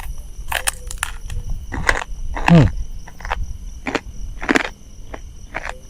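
Chewing and crunching into a cooked spotted dove's wing, a string of irregular crisp crunches, with a short falling hum about halfway. A steady chorus of crickets shrills behind.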